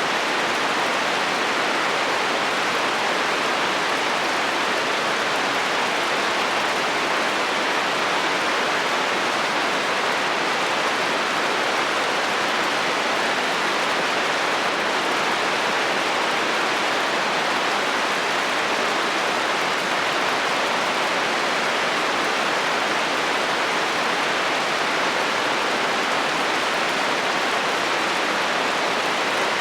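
Steady heavy rain drumming on a metal roof, an even hiss with no let-up and no thunder.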